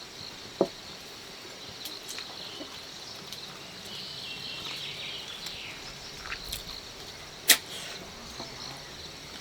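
Steady high chirring of insects, with a sharp click just after the start and a louder, sharper click about three-quarters of the way through.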